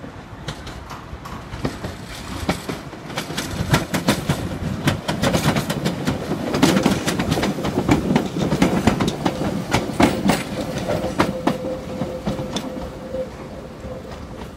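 Island Line 1938 ex-London Underground tube train (Class 483) passing close by, its wheels clicking over the rail joints and points. It grows louder as it approaches and fades as it moves away. A thin steady whine comes in about halfway through.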